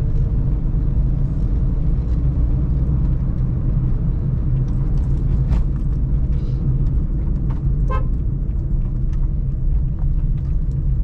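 Steady low rumble of a Suzuki Celerio's small three-cylinder engine and road noise while driving in city traffic. About eight seconds in, a short horn toot sounds.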